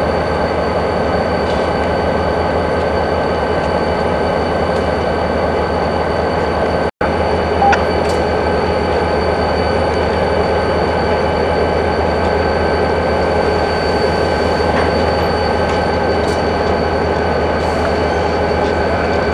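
Freight train moving through a rail yard: diesel locomotives and cars rolling, a steady rumble with a thin high squeal held throughout. The sound cuts out for an instant about seven seconds in.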